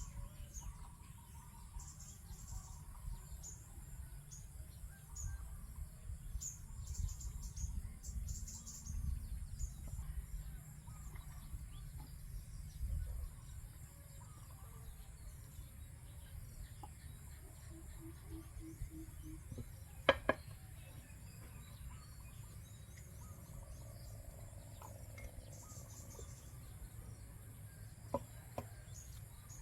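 Rice-field ambience: scattered short, high bird chirps over a steady, high insect hum and a low rumble, with one sharp click about two-thirds of the way through.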